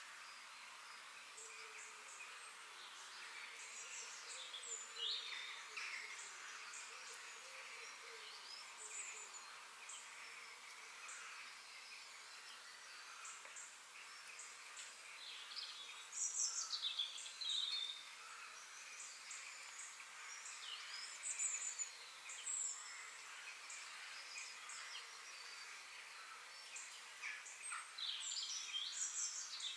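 Several forest birds singing and chirping in short, quick notes over a steady, faint high hiss of insects, with livelier bursts of song about halfway through and near the end.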